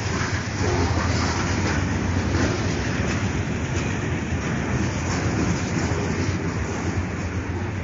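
Freight train cars, autoracks and then a boxcar, rolling past close by: a steady, loud noise of steel wheels on the rails.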